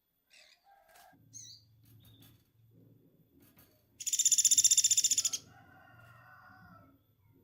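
Woodpecker giving one loud, rapid rattling trill call about a second and a half long, starting about four seconds in.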